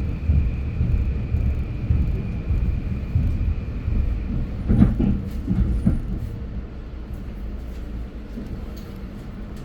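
Metro-North commuter train running, a heavy low rumble with a thin high whine in the first half and a few knocks about five to six seconds in, the noise dying down over the last few seconds as the train slows.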